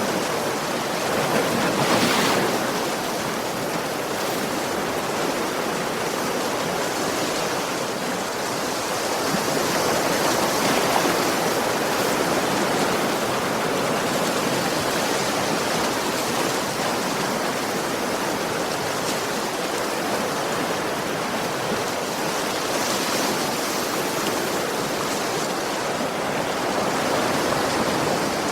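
Ocean waves washing onto a beach, a continuous rush of surf that swells and eases slowly.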